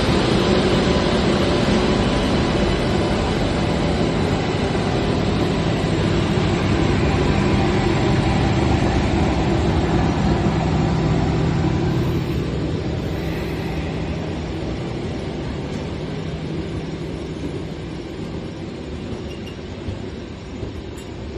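Passenger train running, a steady rumble with a few faint steady tones, fading away gradually over the second half.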